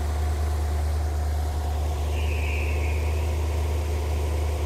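A 1957 Ford Thunderbird's 312 Y-block V8 idling steadily while its distributor is turned to advance the ignition timing, which has been running retarded at about 2 degrees.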